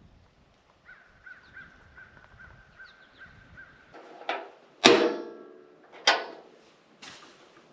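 A portable propane heater being lit: a faint thin whistle-like tone, then four sharp clicks and knocks in the second half, the loudest with a short metallic ring.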